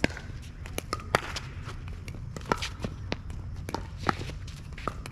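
Pickleball rally on a wet court: sharp paddle-on-ball pops and ball bounces at irregular intervals, the loudest near the start and about a second in, with players' footsteps, over a steady low rumble.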